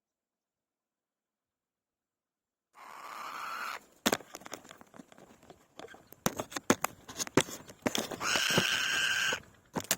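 Silence at first, then white-tailed kite nestlings in the nest: a short rasping call rising in pitch, a run of sharp clicks and rustles, and near the end one long, steady begging call lasting about a second.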